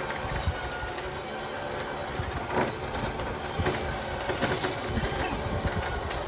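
A vehicle running with a low rumble and frequent irregular metallic clanks and rattles.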